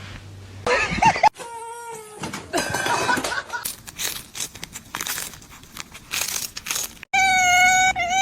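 A cat meows, then come several seconds of clattering and sharp knocks. Near the end a long, steady, high-pitched sound begins.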